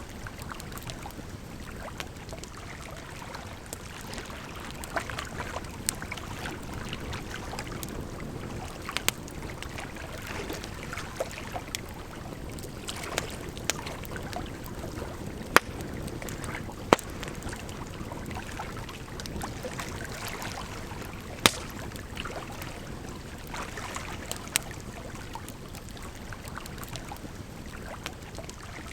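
Campfire crackling, with scattered sharp pops of burning wood, a few of them louder, over a steady rush of flowing water.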